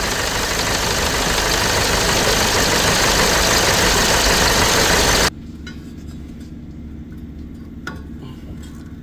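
Cummins 4BT four-cylinder diesel running loudly with a slight knock that the owner still hears after tightening the bearings. The sound cuts off suddenly about five seconds in, leaving a much quieter low hum and a few clicks.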